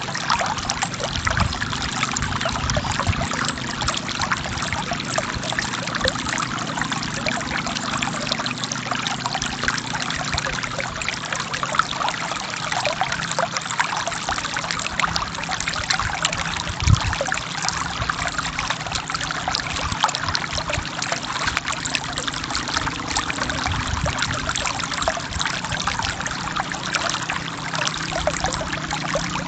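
Forest stream flowing steadily over rocks, with continuous trickling and splashing. A single brief low thump a little past halfway.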